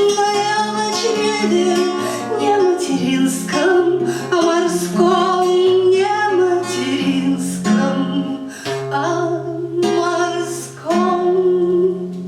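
A woman singing a wordless melody over fingerpicked acoustic guitar, in the closing bars of a song.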